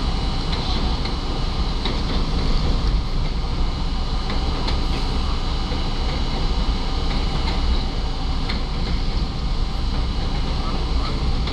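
R32 subway train running at speed, heard from inside the car: a steady rumble of steel wheels on rail, with scattered sharp clicks as the wheels pass over rail joints.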